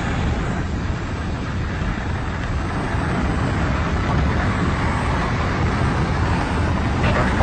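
Steady low drone of an airplane's engine with rushing air noise.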